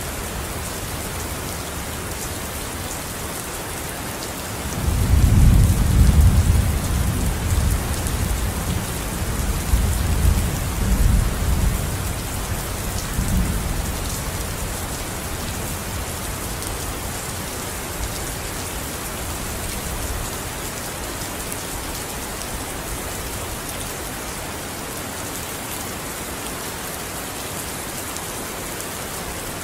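Steady rain falling on a surface, with a deep rumble of thunder that swells about five seconds in and rolls on for several seconds before fading away.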